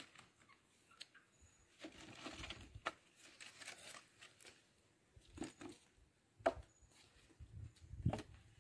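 Scattered light knocks and rustling of dry firewood sticks being handled and stacked, with a sharper knock about six and a half seconds in.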